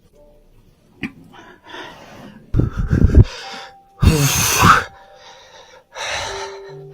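A man breathing hard and gasping, with two loud, sharp breaths, the first about two and a half seconds in and the second about four seconds in.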